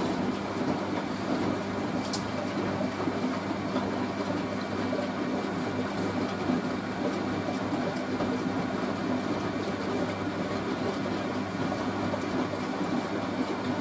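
Hoover A3060 washing machine taking in water for its rinse: water rushes steadily through the dispenser drawer, with a steady low hum under it. It stops just at the end.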